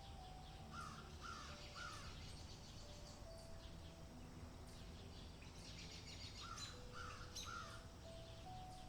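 A bird gives three short calls about a second in, then three more near the end. Under them are soft background music of slow held notes and a faint outdoor hiss.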